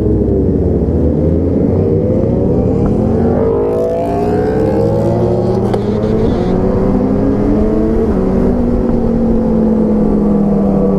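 Motorcycle engine under way, its pitch rising as it accelerates over the first few seconds, then holding a fairly steady note.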